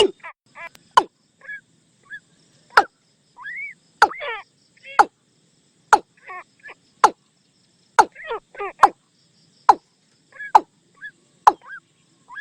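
Watercock calls: a running series of short, clucking notes mixed with sharp clicks, coming roughly once a second.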